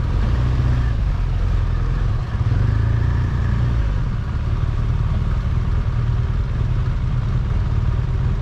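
A car engine running and road rumble while driving, steady and low.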